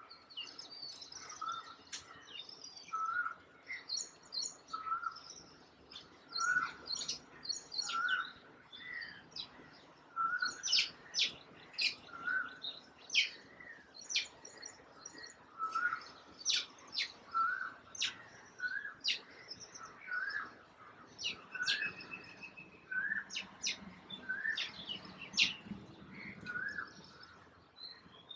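Birds calling: a short, mid-pitched note repeats about once a second, under a busier scatter of quick, high chirps.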